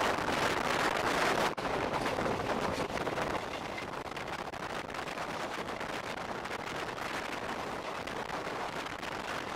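Passenger train running along the track: wheels clattering on the rails in rapid clicks over a rush of air and rumble. It is louder for the first three seconds or so, then settles to a steadier, lower run.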